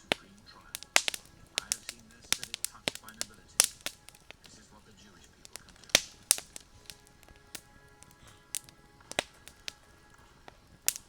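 Wood campfire crackling: irregular sharp pops and snaps, a few of them much louder than the rest.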